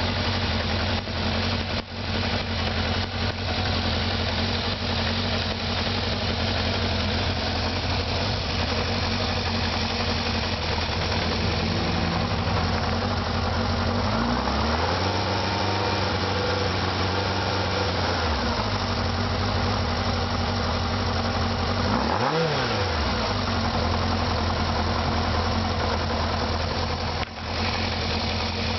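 Kawasaki KZ650 inline-four engine idling during carburettor synchronising. About halfway through, the revs rise and hold for a few seconds before dropping back. A few seconds later comes one quick throttle blip.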